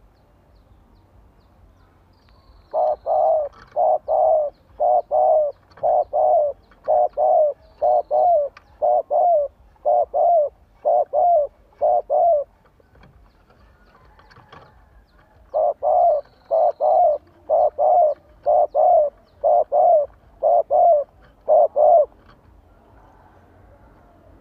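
Decoy spotted dove cooing: two long runs of quick, evenly spaced paired coos, the second beginning about fifteen seconds in after a short pause.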